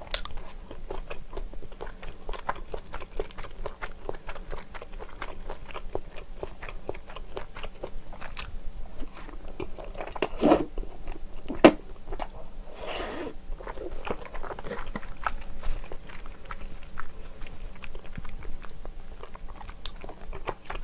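Close-miked chewing and biting of spicy tteokbokki with chewy rice cakes, flat glass noodles and Vienna sausages, a steady run of small wet clicks and smacks. Between about ten and thirteen seconds in come louder slurps as long strands are sucked into the mouth.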